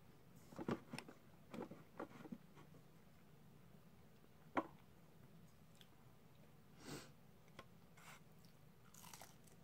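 Faint eating sounds: scattered small mouth clicks from chewing and soft rustles from handling the food, with one sharper click about halfway through.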